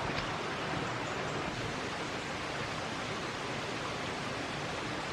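A rocky stream tumbling over small waterfalls: a steady rush of water.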